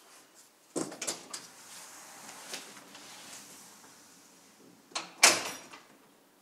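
Door sounds: a sharp knock with a few clicks under a second in, then a latch click and a door closing, the loudest sound, about five seconds in.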